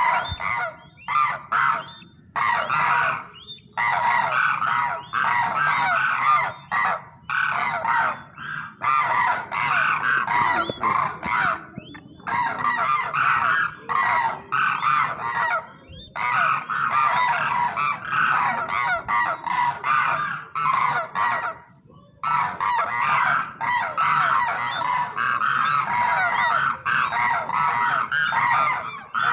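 A flock of cranes calling, many loud honking calls overlapping in long clamorous runs, with short pauses every few seconds.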